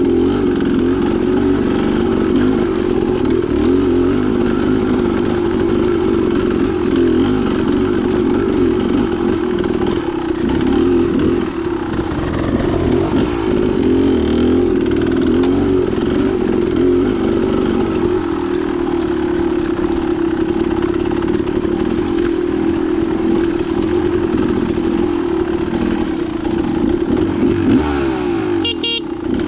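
Dirt bike engine running continuously on a trail ride, its pitch rising and falling with the throttle. There is a brief high squeak near the end.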